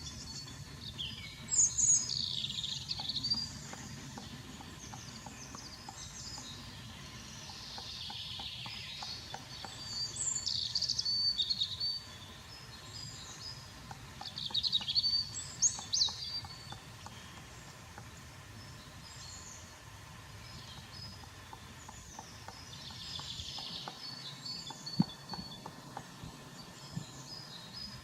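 Small songbirds singing in woodland: short, high, trilling phrases repeated every few seconds over a low steady background rumble.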